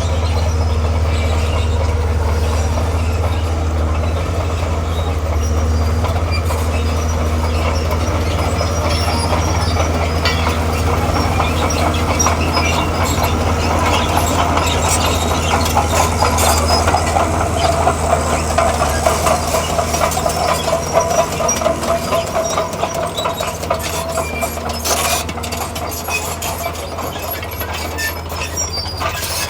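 Heavy crawler machine at work: its diesel engine runs steadily while the steel tracks clank and squeal, the clatter and squeal loudest about halfway through.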